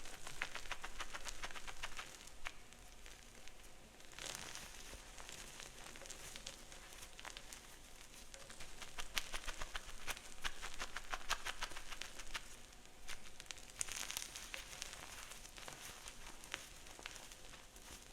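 Reformed gym chalk blocks being crushed and crumbled by hand: dense runs of fine, crunchy crackles, louder in clusters about nine to eleven seconds in and again around fourteen seconds.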